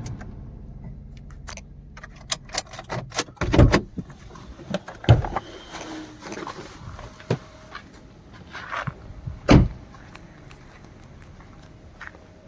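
Scattered clicks and knocks from a car's doors and fittings being worked by hand, with three heavier thumps about three and a half, five and nine and a half seconds in.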